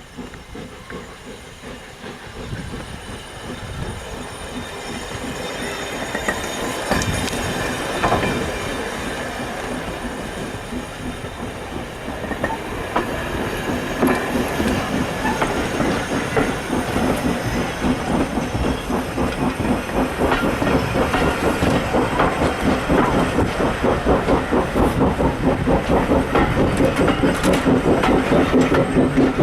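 Heritage train hauled by a Bagnall 0-6-0 saddle-tank steam locomotive, running along the track. It grows steadily louder and ends in a quick, even beat.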